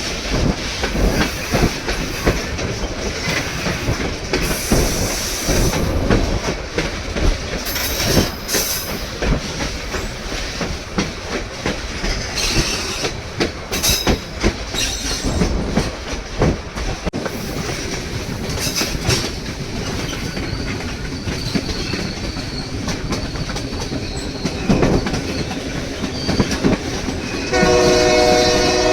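White Pass & Yukon Route narrow-gauge train running on the rails: a steady rumble with a constant patter of wheel clicks over the track. Near the end the locomotive's horn sounds, a steady chord of several tones.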